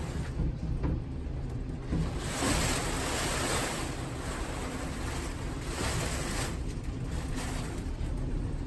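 Typhoon wind gusting with a rushing hiss, rumbling on the microphone; the hiss swells about two seconds in and again around six seconds.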